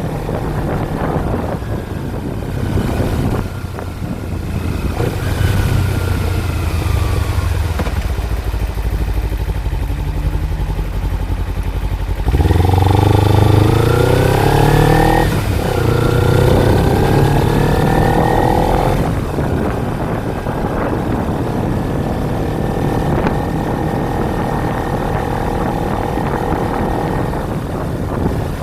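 Kawasaki Ninja 250's parallel-twin engine running as the bike is ridden. About twelve seconds in it revs up hard, the pitch climbing, then drops for a gearshift and climbs again before easing back to a steady cruise.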